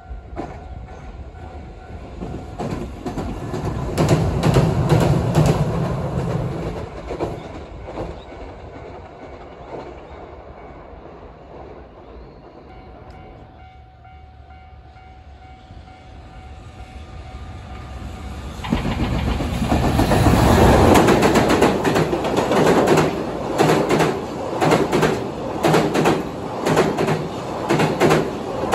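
A Hiroshima Electric Railway 3950-type tram passes, its running noise swelling and fading over a few seconds. Later a JR Freight container train hauled by an EF210 electric locomotive arrives loudly, and its container wagons roll by in a steady run of rhythmic wheel clatter.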